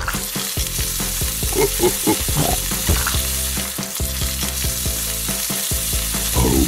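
Sizzling-meat sound effect of food frying on a grill: a steady hiss that starts abruptly.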